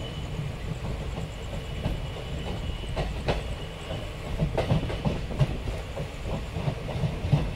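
Passenger train running, heard from on board: a steady low rumble with the wheels clacking irregularly over rail joints and points, the clacks heavier and more frequent in the second half.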